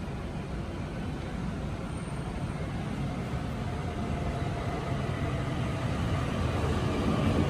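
Electric train approaching through the station, a low rumble growing steadily louder, with a faint whine coming in about halfway through.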